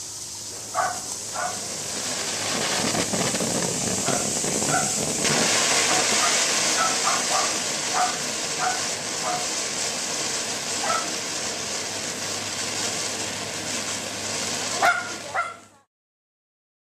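A Mini Monster firework spraying with a steady, loud hiss that builds over the first couple of seconds and stops abruptly near the end. A dog barks now and then over it.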